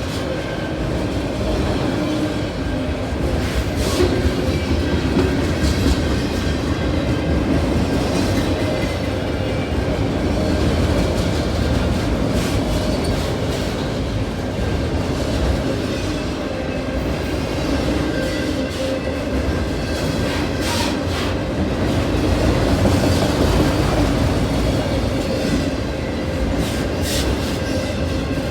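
Freight cars of a Canadian National train rolling past: the steady rumble of steel wheels on the rails, with occasional clicks as wheels cross rail joints.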